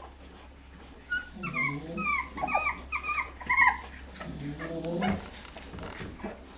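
A sleeping dog snoring in low, drawn-out breaths. From about a second in there is a quick run of short, high whimpers, followed by another snore.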